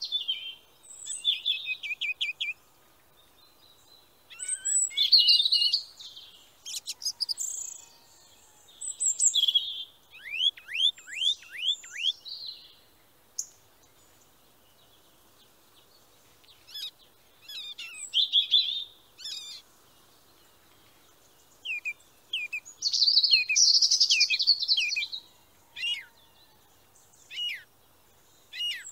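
Birds singing: phrases of high chirps, trills and quick downslurred whistles, each a second or two long, with short pauses between them.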